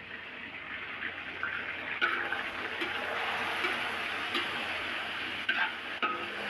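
Chicken pieces sizzling in hot oil in a steel wok, with a fork scraping and clicking against the metal as they are stirred. The sizzle grows louder over the first two seconds and then holds steady, with a handful of sharp clicks from the fork.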